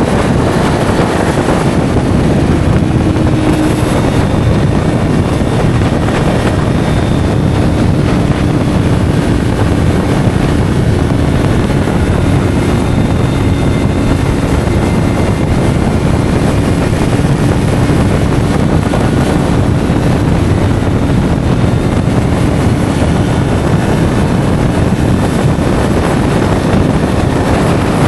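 Yamaha R3's parallel-twin engine through an SC Project slip-on exhaust, running steadily at an even cruising speed under heavy wind rush on the microphone.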